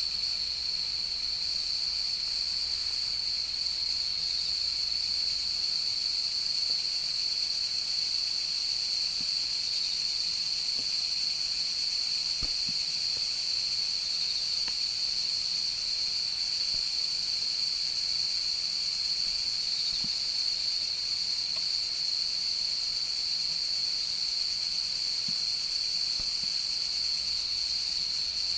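Chorus of autumn night insects singing, a continuous high-pitched trill that holds steady throughout.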